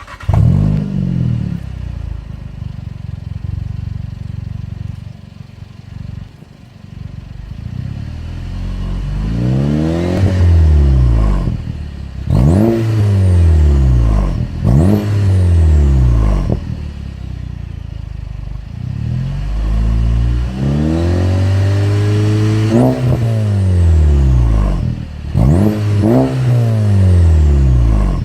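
Volkswagen 1.8 TSI turbocharged four-cylinder starting with a quick flare, then idling on a straight-through 3-inch catless turboback exhaust. From about nine seconds in it is free-revved several times, short blips and a couple of longer pulls, with a high whistle falling away after some of the revs.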